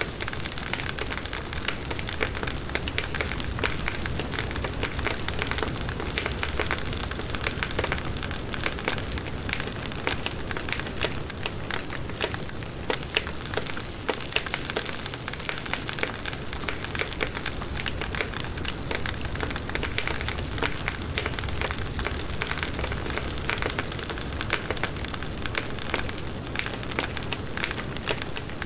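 Firewood burning in a campfire, crackling continuously with dense, irregular small snaps and pops at a steady level.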